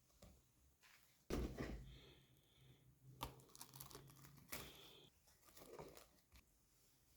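Faint handling sounds during food preparation: crinkling and rustling, with a few light knocks.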